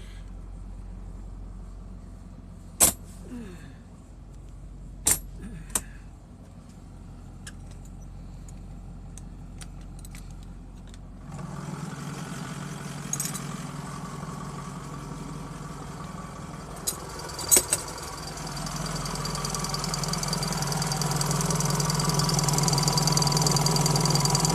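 Motorhome diesel engine running at idle, muffled at first with a few sharp clicks and knocks. About eleven seconds in it suddenly turns louder and fuller, with another sharp click a few seconds later, and it grows steadily louder toward the end.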